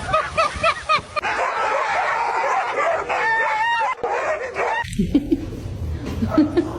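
A dog yipping and whining in short high calls that rise and fall, a quick string of them at the start and again about three seconds in.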